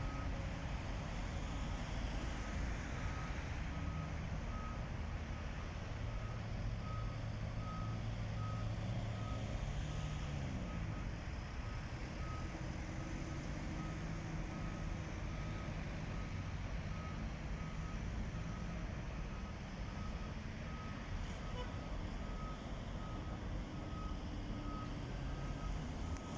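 A steady series of short electronic warning beeps over the low rumble of a diesel engine, with the engine's pitch rising and falling for a few seconds partway through.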